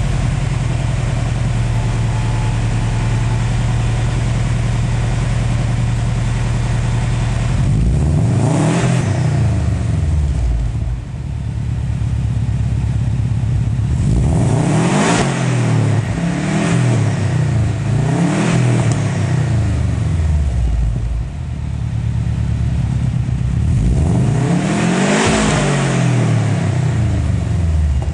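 Subaru Legacy GT's turbocharged 2.5-litre flat-four running through an Autospeed performance exhaust. It idles steadily, then is revved up and allowed to fall back five times: once, then three quick blips in a row, then a longer rev near the end.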